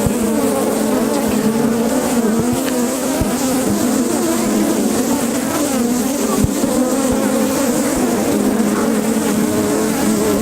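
Many honeybees buzzing close to the microphone: a dense, steady hum of overlapping wing tones that waver in pitch. A few faint low knocks sit under it.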